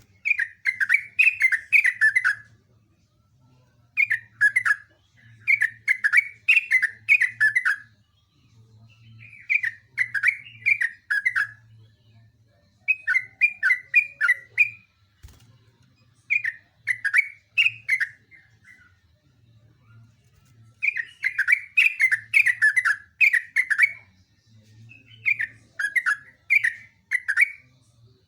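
Yellow-vented bulbul (trucukan) singing loudly in repeated bubbly, chattering phrases of quick notes, each two to three seconds long with short pauses between.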